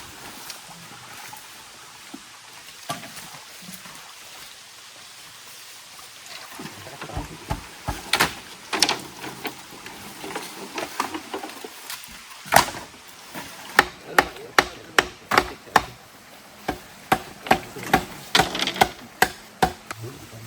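Repeated sharp chopping blows on wood, scattered at first, then in quick runs of about two to three strikes a second.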